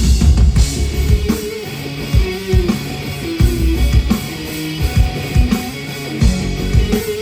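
Live rock band playing an instrumental passage: a repeating guitar line over bass and a drum kit.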